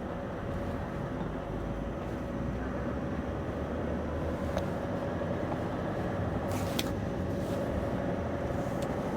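Scania V8 diesel truck engine running steadily under way, heard with road noise from the driver's cab, with a constant tone over the rumble. A brief sharp hiss-like burst comes about two-thirds of the way through.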